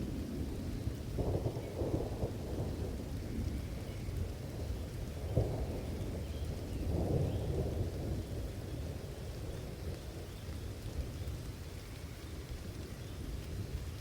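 Steady rain with thunder rumbling low, rolling in surges about a second in and again around five and seven seconds, then fading.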